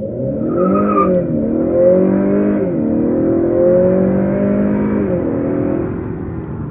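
2019 Honda Accord's 2.0-litre turbocharged four-cylinder accelerating hard from a standstill at full throttle. The engine pitch climbs and drops back three times as the 10-speed automatic upshifts, with a brief high-pitched tone about a second in. The sound eases near the end.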